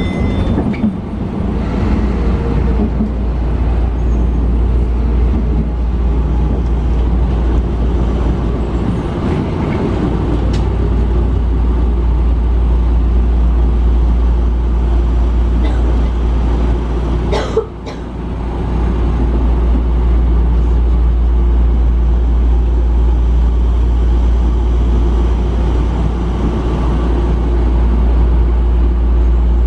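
Sotetsu electric commuter train running, heard from inside the front car: a steady low rumble of wheels and running gear. About eighteen seconds in, the noise briefly dips and there is a single sharp click.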